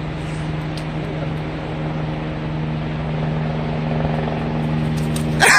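A steady low mechanical hum holding one constant pitch, like a motor or engine running, with excited voices breaking in right at the end.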